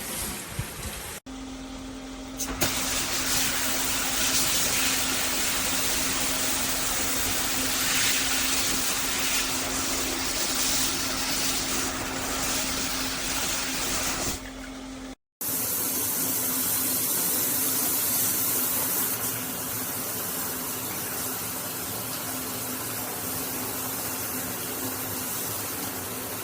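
Water spraying steadily from a handheld shower head, a hiss with a faint low hum underneath. It cuts out briefly about a second in and again about halfway through.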